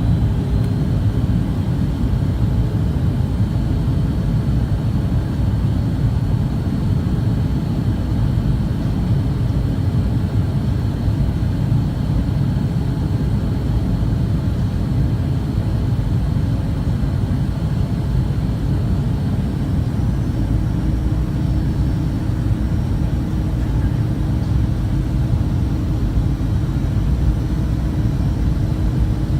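Steady roar of an airliner's jet engines and airflow heard inside the passenger cabin in flight, strongest in the low end, with faint steady whines above it.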